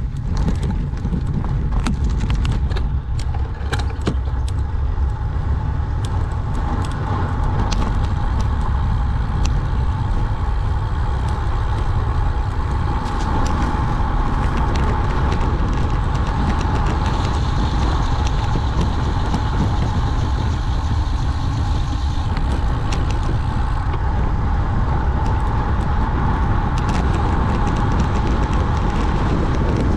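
Steady wind roar on the microphone and tyre hum from a road bike descending fast, with scattered sharp clicks and knocks from bumps in the road, most of them in the first few seconds.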